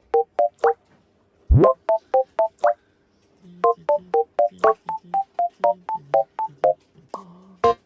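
Background music: a bouncy tune of short staccato electronic keyboard chords over a bass line, with a rising slide sound effect about a second and a half in.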